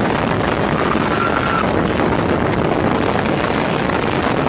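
Loud, steady rushing noise with wind on the microphone and no distinct blasts or impacts.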